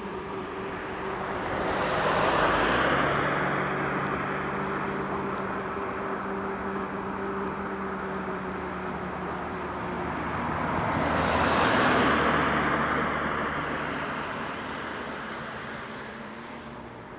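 Two cars pass by one after the other, each a swell of road and tyre noise that builds and fades away. A steady low hum runs underneath.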